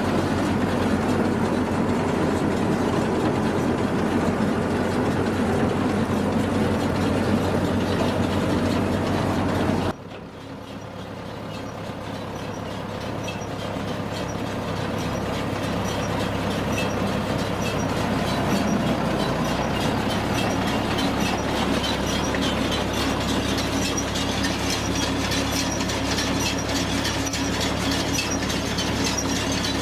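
Tractor-driven Hesston 540 round baler running: a steady engine drone, then, after an abrupt cut about ten seconds in, the baler builds up speed over several seconds and runs on with a fast, even clatter of its chains and rollers.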